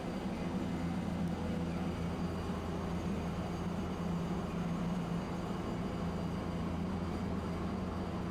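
Tosaden streetcar making a steady low hum and rumble at an even level.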